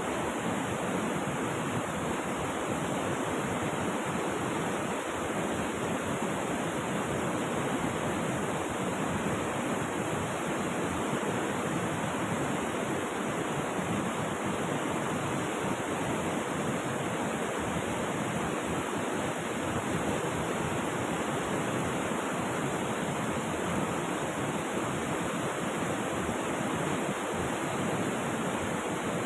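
River water rushing steadily in a continuous, unbroken wash of noise.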